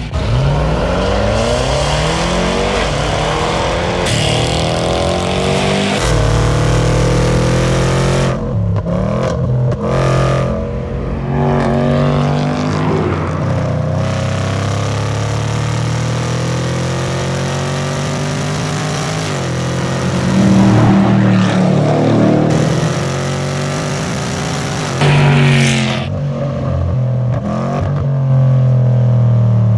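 Range Rover Sport SVR's supercharged 5.0-litre V8 accelerating hard through the gears, its note climbing steeply and dropping back at each shift, several times over.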